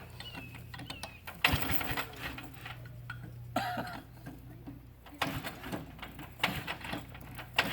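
A riding lawnmower's engine being cranked by its starter without catching. It cranks in a long steady try, pauses about five seconds in, then cranks again, with a few knocks over it.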